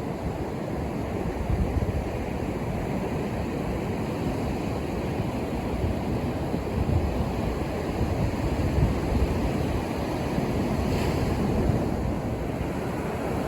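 Ocean waves breaking and washing on a beach: a continuous rushing surf, deepest in the low end, swelling and easing every few seconds.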